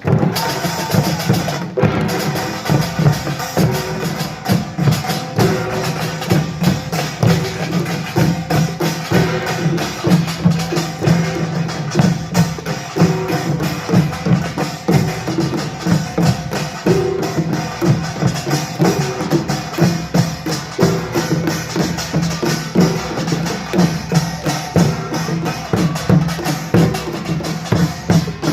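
Korean pungmul ensemble of gongs and drums playing a fast, dense rhythm, strikes packed closely together.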